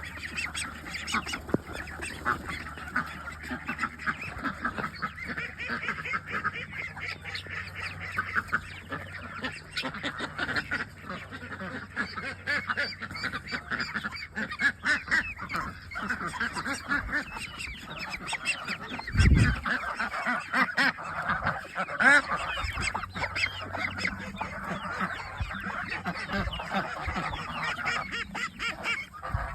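A flock of domestic geese honking continuously, with ducks quacking among them, many calls overlapping. A single loud low thump about two-thirds of the way in.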